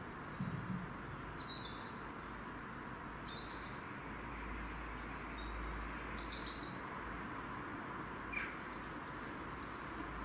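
Small birds chirping in short, scattered high calls over a steady background hiss.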